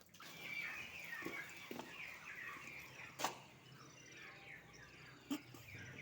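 Small birds chirping: many short, quick, falling high notes in rapid succession, with two sharp clicks, one about three seconds in and one near the end.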